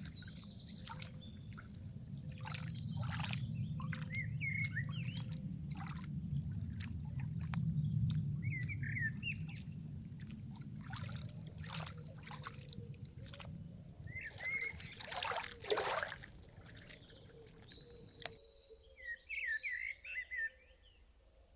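Small forest birds chirping in short repeated phrases over trickling water, with many small clicks and a low steady rumble. The rumble stops abruptly near the end, leaving only the bird calls.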